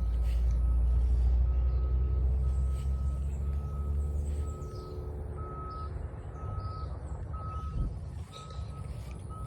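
A vehicle's reversing alarm beeping at one steady pitch about every 0.7 seconds, over the low rumble of a heavy truck engine that eases off about halfway through.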